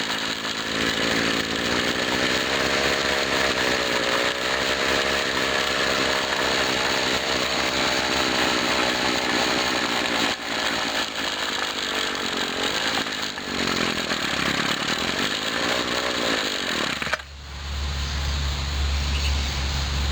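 Small two-stroke engine of a 1997 Husqvarna 24cc string trimmer, freshly fitted with new carburetor diaphragms, running at high revs with the pitch rising and falling under the throttle. About 17 seconds in it drops abruptly to a low idle.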